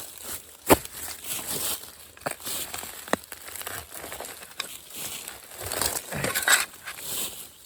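Dry leaf litter in a bamboo grove crunching and rustling in irregular bursts, with sharp cracks about a second in and about three seconds in.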